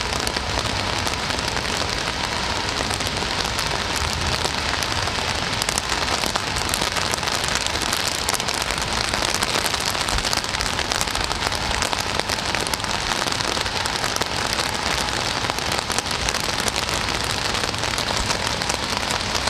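Steady rain falling: a dense, even patter of many small drops hitting a surface, with no let-up.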